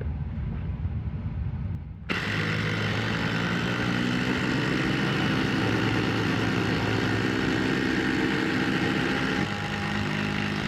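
Two cordless impact drivers, a Ridgid and a Ryobi with brushed motors, hammering 8-inch by 3/8-inch lag screws into pressure-treated 4x4 at the same time. The sound starts suddenly about two seconds in, changes about a second before the end and then cuts off sharply.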